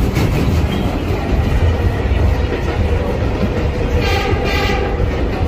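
Vintage 1960s New York subway train running along the track: a steady, loud rumble with rail clatter. About four seconds in, two short high-pitched tones sound one after the other.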